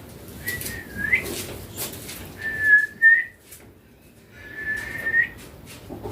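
Indian ringneck parakeet whistling: three level whistled notes at about the same pitch, the first ending in a short upward flick, with sharp clicks between them.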